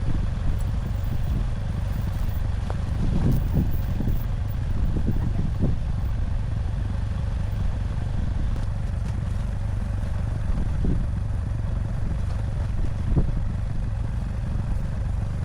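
ATV engine running steadily, with a few scattered knocks and clatter a few seconds in and a sharper knock near the end.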